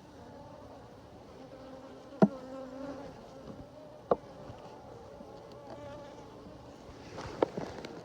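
Honeybees buzzing close by, their hum wavering in pitch as they fly. Two sharp knocks cut through the buzz, about two seconds in and again about four seconds in.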